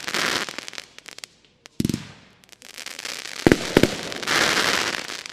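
Argento Sakkara firework battery, a 40-shot cake in 20, 25 and 30 mm calibres, firing. There is a deep launch thump about two seconds in and sharp bangs a little past halfway, between stretches of dense crackling from the effects, which die off into scattered pops at the end.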